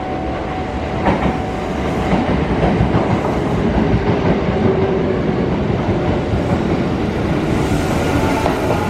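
Electric commuter train running close by through the station, its wheels rumbling on the rails with a few sharp clicks over the joints, growing louder as it comes alongside.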